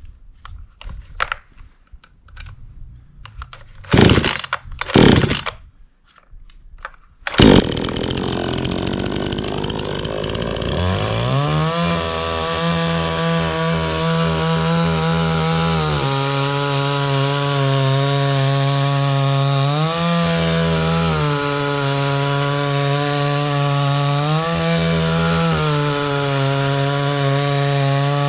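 Two-stroke petrol chainsaw being pull-started: two hard pulls on the starter cord about four and five seconds in, and the engine catches a couple of seconds later. It then runs loud and steady, its speed rising briefly and falling back every four seconds or so.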